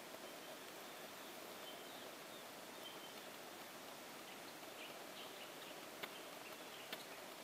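Faint bush ambience: a steady hiss with distant birds chirping now and then, and two sharp clicks near the end.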